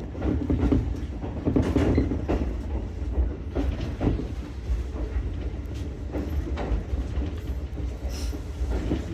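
Ichibata Electric Railway 7000-series electric railcar running on the line, with a steady low rumble and irregular clicks and knocks from the wheels over rail joints.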